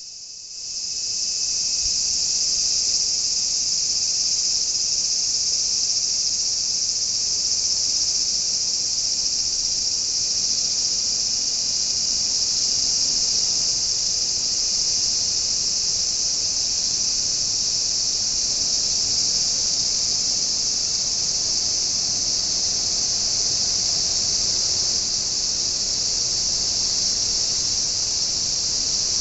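A cicada chorus: a dense, steady, high-pitched buzz that swells in over the first second or so, then holds loud and unbroken.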